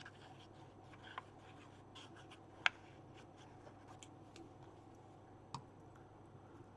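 Quiet handling of paper and craft tools on a desk: faint rubbing with a few small clicks and taps, the sharpest about two and a half seconds in.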